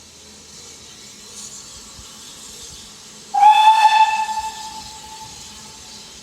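BR Class 9F 2-10-0 steam locomotive's whistle sounded once as it departs: a single loud note that slides up slightly as it opens, then fades over about two seconds. A steady hiss of steam runs underneath.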